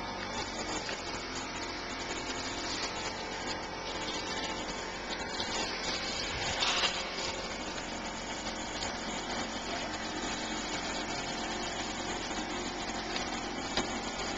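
A hand air pump being worked to pressurize a toy rocket before launch: a steady rushing, hissing noise with a brief louder swell about halfway through.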